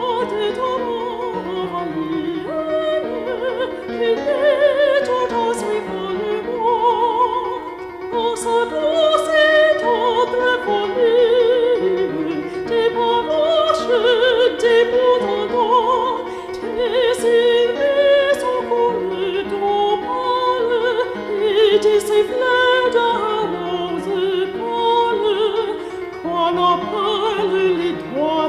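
Operatic singing with a wide vibrato over a sustained classical accompaniment.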